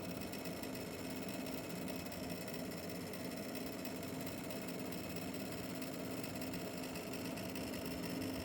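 NVIDIA RTX 5070 Ti graphics card running with a steady, fast mechanical rattle over a hum.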